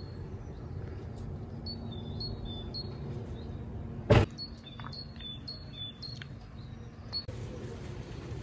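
A songbird singing short phrases, each a quick repeated two-note chirp, high then lower, over a steady low background rumble. A single sharp knock about four seconds in is the loudest sound.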